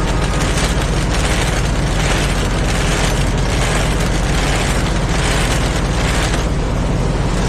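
A semi-truck's diesel engine runs close by, a loud, steady low rumble with a hiss that swells and eases gently.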